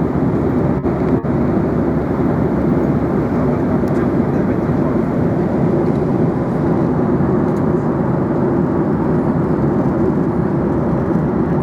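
Airliner cabin noise in flight: the steady rush of engines and airflow heard from inside the cabin, dense and low-pitched. It has two very brief dips in level about a second in.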